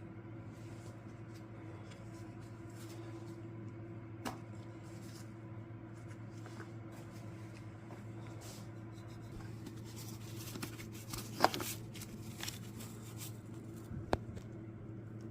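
Hand tools and metal engine parts being handled during an engine teardown: scattered light clicks and clinks, with a sharp clink about eleven seconds in, over a steady electrical hum.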